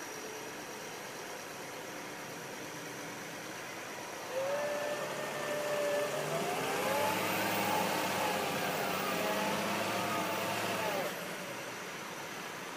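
A vehicle engine, most likely a tractor's, revs up about four seconds in, its pitch rising and falling as it works, then cuts off suddenly near the end, over a steady background hiss.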